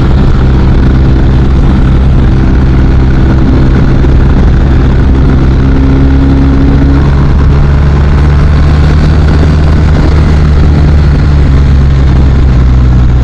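BMW R 1250 RT's boxer-twin engine running steadily under way, its pitch stepping up slightly about halfway through.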